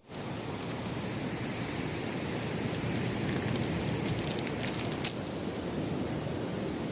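Steady noise of surf and wind, with a few faint clicks between about three and five seconds in.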